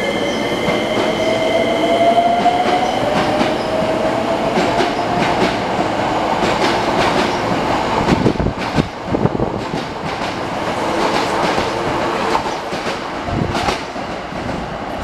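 Hankyu electric train departing, its traction motors whining up in pitch as it accelerates over the first few seconds. Then the rumble of the passing cars' wheels, with repeated clacks over the rail joints, easing off near the end as the last car goes by.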